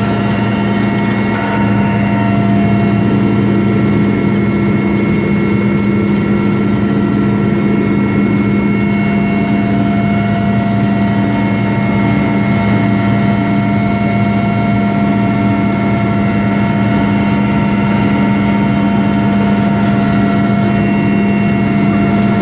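Military helicopter in flight, heard from inside the cabin: a loud, steady drone with a strong low hum and several steady higher whining tones.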